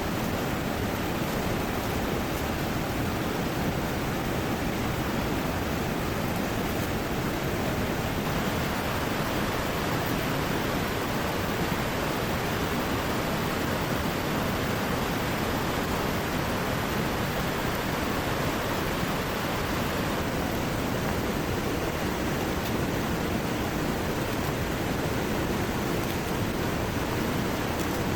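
Heavy rain pouring steadily, blended with the rush of a swollen river, as an even hiss without breaks.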